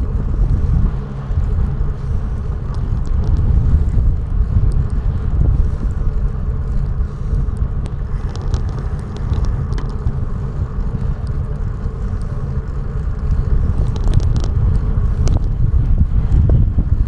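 Wind buffeting the microphone while riding, over a steady low rumble of travel, with a few brief sharp ticks near the middle and again toward the end.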